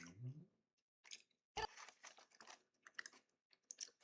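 Faint, irregular clicks and crackles close to the microphone.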